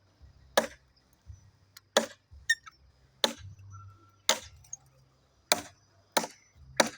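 Machete chopping into a log of wood: seven sharp blows, roughly one a second, with a slightly uneven rhythm.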